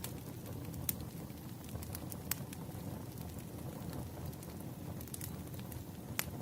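Wood fire burning with a steady low rumble and scattered sharp crackles and pops from the firewood.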